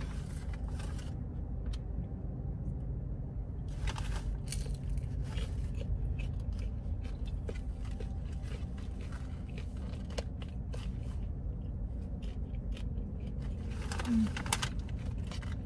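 Close-up crunching and chewing of crispy seasoned potato wedges: irregular crackles, heaviest about four seconds in and again near the end. Under them runs a steady low rumble.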